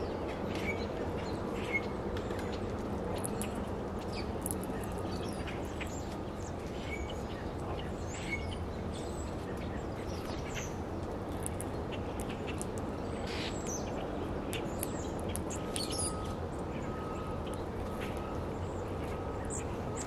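Small birds chirping, with scattered short, sharp chip notes over a steady low background noise. A faint short note repeats several times in the last few seconds.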